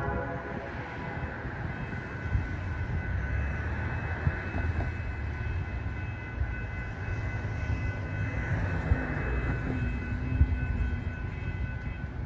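Diesel locomotive of a Cuyahoga Valley Scenic Railroad train approaching in the distance: a steady low rumble with a faint, steady high whine over it.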